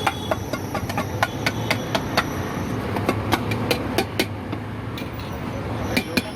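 A street-food vendor's cooking utensils clacking and knocking quickly and irregularly, several strikes a second, over a steady low hum.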